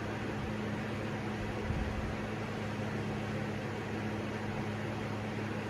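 Electric fans running steadily on high: an even whir of moving air with a low steady hum, most of it from a portable fan, while the SMC Laguna ceiling fan itself runs almost silently with no bearing noise or buzzing. One light bump about two seconds in.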